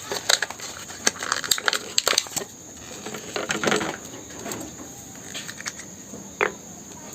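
Plastic crackling and crinkling as it is handled: a quick run of sharp clicks and crackles over the first couple of seconds, then scattered ones.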